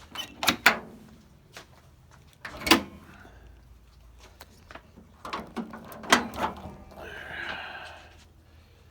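Metal clunks and knocks from a 1985 Jeep CJ7's hood being unlatched and raised. A few sharp knocks come near the start and a loud one at about three seconds. A cluster of clunks follows a couple of seconds later, then a short rattling scrape.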